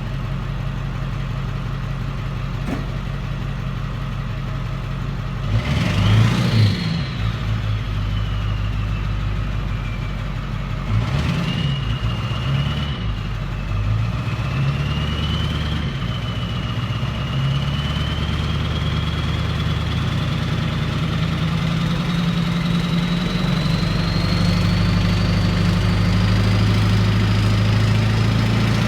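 Straight-piped 7.3-litre V8 running at idle, with two short revs about six and eleven seconds in. A high whistle climbs slowly in pitch through the second half as the engine note rises a little.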